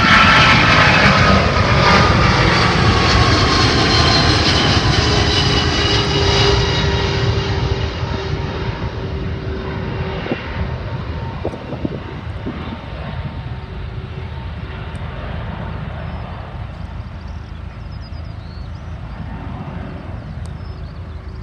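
An airliner passing close by, its engines loudest at the start with a whine that drops slightly in pitch, then a long engine rumble fading steadily as it moves away.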